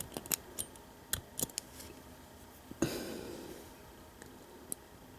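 Metal lock pick and tension wrench working the keyway of a rusty Master Lock No. 5 padlock: a quick run of light clicks, a louder scrape about three seconds in, then a single click near the end. The pins are stiff and hard to move from rust.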